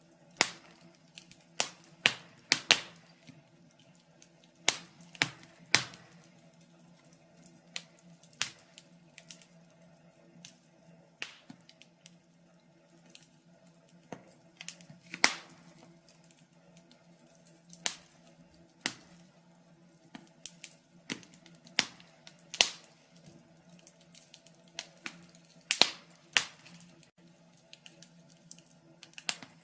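Log fire crackling in a fireplace: irregular sharp pops and snaps, sometimes in quick clusters, with quieter ticks between them.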